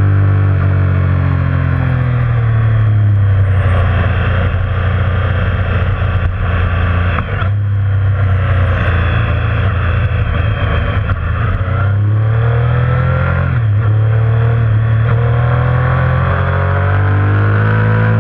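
Motorcycle engine running under way, with road and wind noise. The revs fall and climb again several times, with short breaks that sound like gear changes about a third of the way in and again past the middle.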